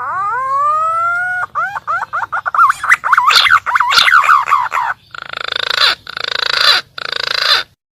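Green pigeon (punai) call played as a hunting lure. A long rising whistle, then a fast run of warbling whistled notes, then three harsh grating croaks, ending abruptly.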